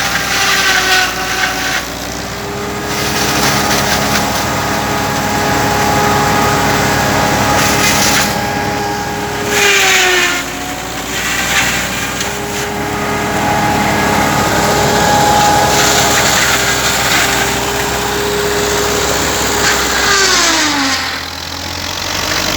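Belarus 510 tractor's diesel engine running steadily at working speed, its pitch sagging twice: about ten seconds in and again near the end.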